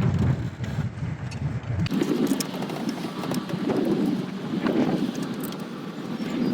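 Wind buffeting the microphone. A deep rumble gives way abruptly about two seconds in to a steadier rushing noise, with a few faint small clicks.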